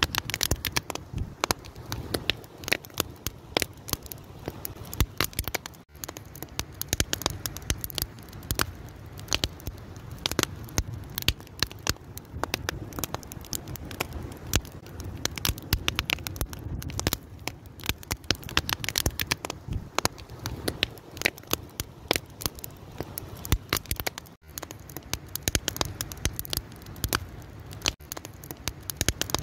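Wood fire crackling, with dense, irregular sharp pops and snaps over a steady low rumble of the flames.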